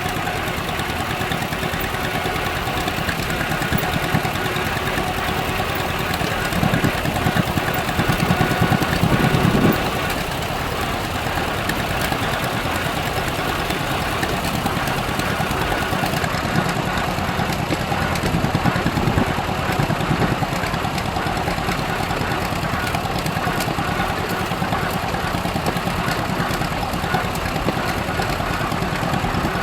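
Tractor engine running steadily while driving along, with a louder stretch from about seven to ten seconds in.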